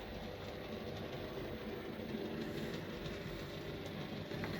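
Graham Farish N gauge Class 37 model locomotive running steadily along the track at a middle speed step, its small motor and wheels making an even running sound.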